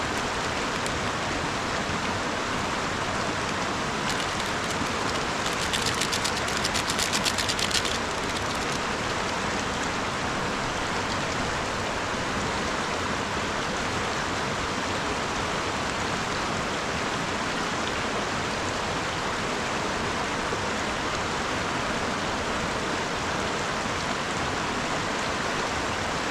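Mountain river rushing past as a steady, even noise. About six seconds in, it is joined for some two seconds by a run of rapid crackling clicks.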